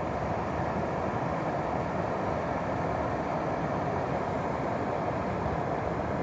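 Stream water flowing steadily past ice, a constant even rushing sound.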